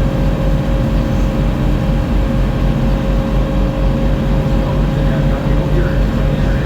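Friendship Boat's engine running steadily under way, heard from the stern: a constant low throb with a steady whine over it.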